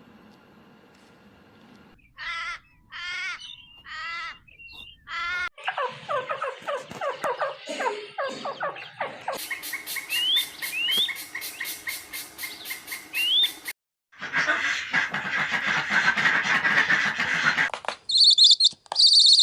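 A run of different animal calls cut one after another: four separate calls, then birds chirping and tweeting, with a fast regular clicking and short rising whistles, then high chirps near the end.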